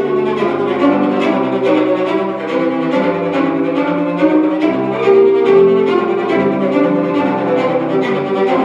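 Cello played live, a bowed melody moving through sustained notes with further notes sounding alongside it.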